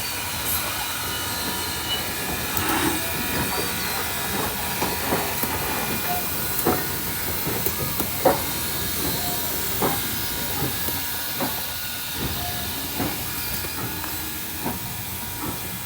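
Train at close range: a steady hiss of steam with irregular metallic clanks and knocks scattered through it, one sharper knock about halfway through.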